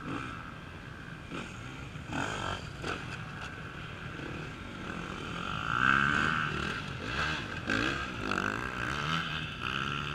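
Off-road racing motorcycles revving up and down as they ride over logs, with a few short knocks about two seconds in and the engines loudest from about the middle on.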